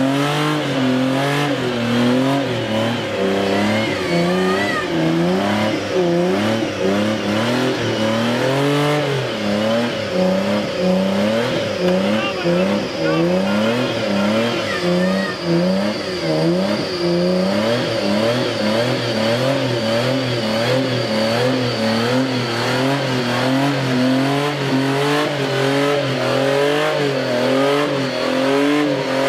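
Off-road 4x4's engine revving over and over, its pitch climbing and dropping about once a second. The vehicle is stuck nose-down in a muddy ditch and trying to drive out.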